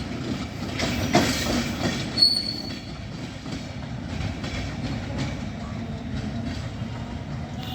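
Passenger coaches of a train rolling past on the track. The wheels clack over rail joints during the first couple of seconds, and a short wheel squeal comes about two seconds in. Then it settles into a quieter, steady rumble.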